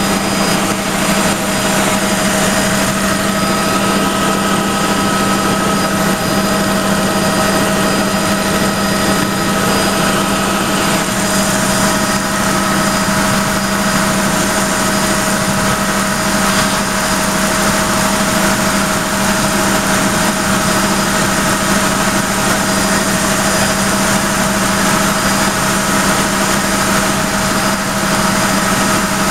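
Helicopter in flight heard from inside the cabin: loud, steady turbine and rotor noise with a constant high whine over a low drone.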